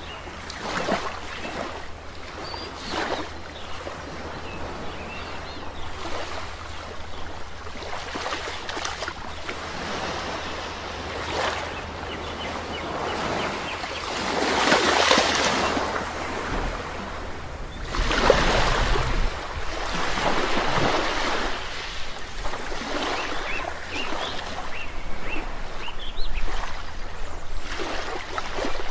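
Sea waves washing onto a shore, with surges swelling and falling back; the biggest come about halfway through and a few seconds later. Faint bird chirps sound here and there.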